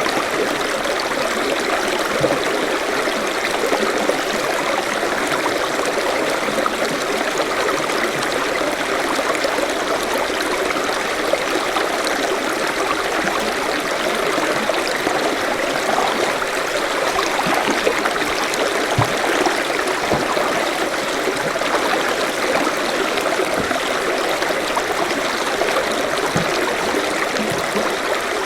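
Forest stream running steadily, water babbling and splashing over rocks.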